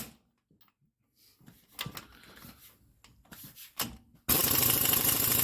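A few light metallic clicks and clinks, then about four seconds in a loud, rapid hammering starts: an impact wrench driving a tight bolt on a Manitou rear brake hub.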